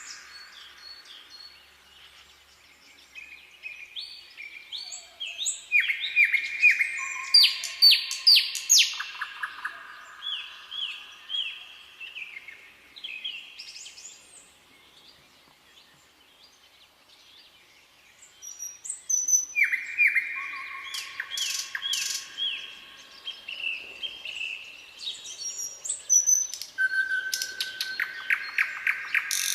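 Songbirds singing in clear whistled phrases and short trills. Two busy bouts of song are separated by a quieter lull midway.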